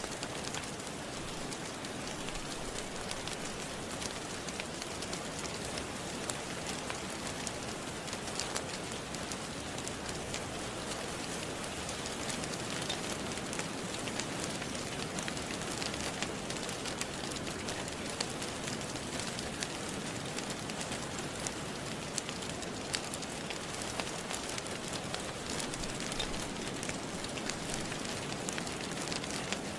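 Steady rain falling on a surface, mixed with the scattered small pops and crackles of a wood fire in a fireplace.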